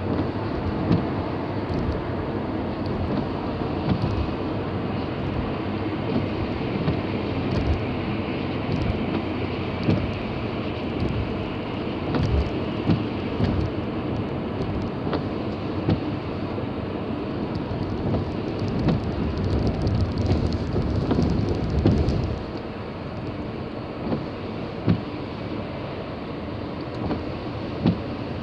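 A car driving: steady road and engine noise with scattered small knocks, dropping noticeably about 22 seconds in.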